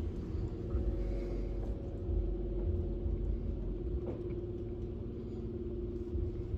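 Belanger Vector Rapid Wash touchless car wash machine running: a steady low rumble with a constant hum and little spray hiss.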